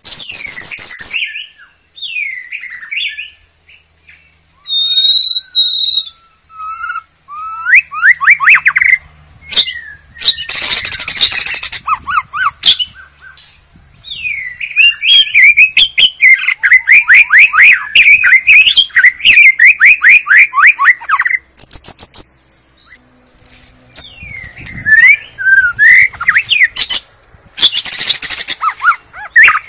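White-rumped shama singing: loud, varied phrases of clear whistles and pitch glides, fast trills and harsh scratchy notes, broken by short pauses, with one long rapid trill in the middle.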